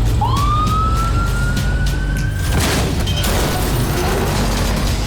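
A siren-like tone sweeps up quickly and then keeps climbing slowly for about two seconds over a low droning music bed. A little after halfway it breaks off into a loud rush of noise.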